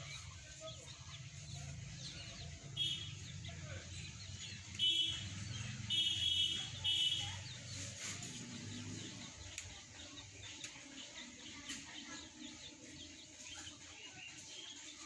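Chickens clucking, a few short calls in the first half, over a low steady hum that fades out about nine seconds in.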